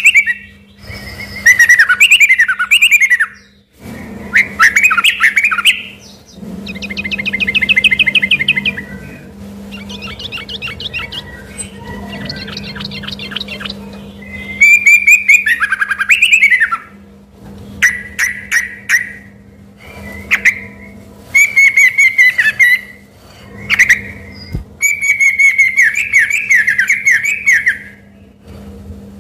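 Yellow-vented bulbul (trucukan) singing vigorously in loud phrases of gliding whistled notes, broken by short pauses. A softer run of rapid, repeated chattering notes comes about a third of the way in.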